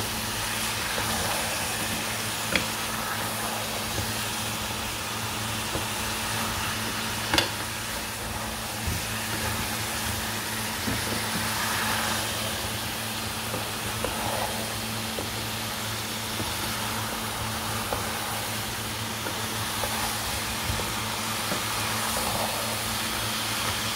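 Keema, potatoes, peas and cauliflower frying in a pan: steady sizzling over a low steady hum, with a few sharp knocks, the loudest about seven seconds in.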